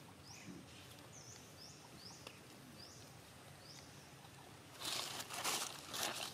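A bird gives about six short, high chirps at intervals of roughly half a second. About five seconds in, a louder rustling and crackling of dry leaves and grass takes over.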